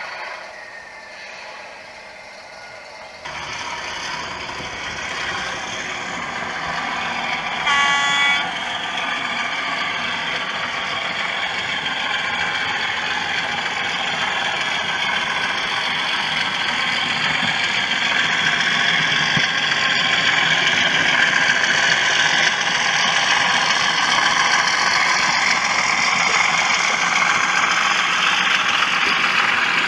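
DCC sound decoder in an OO gauge model locomotive, playing engine sound through its small speaker. The sound starts abruptly about three seconds in, gives a short horn toot about eight seconds in, then builds steadily louder as the loco runs.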